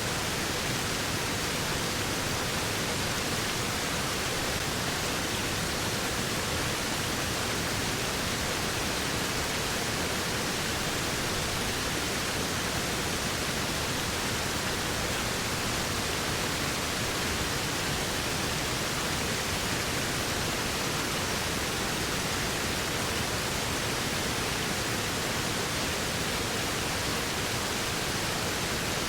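Waterfall: a steady, unbroken rush of falling water, even across low and high pitches with no changes.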